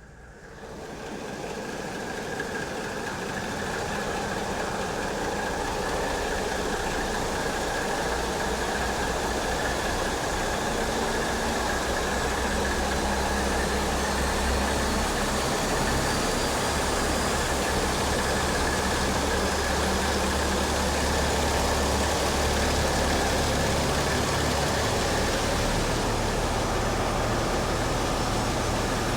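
Tugboat engine running steadily, a loud even machine noise with a low hum. It swells in over the first few seconds, then holds steady.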